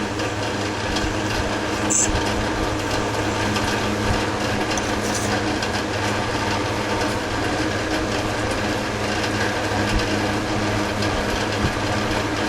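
Metal lathe running steadily, its motor and gearing giving an even hum, with a few light ticks.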